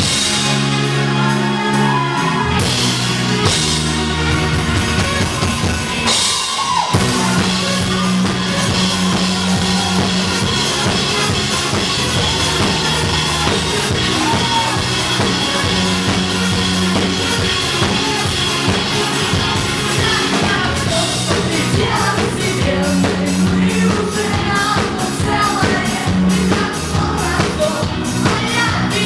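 A rock band playing live, with some singing: a held intro of chords, then the drum kit comes in about seven seconds in with a steady beat over a bass line.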